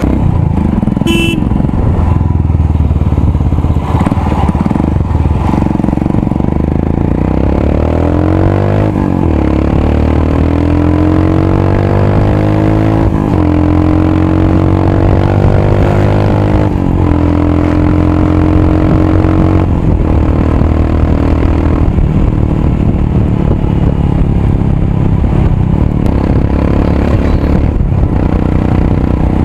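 Royal Enfield Himalayan's single-cylinder engine through a loud aftermarket exhaust, pulling away and accelerating up through the gears. The pitch climbs and drops back at each of several gear changes, then the bike runs steadily for the last third.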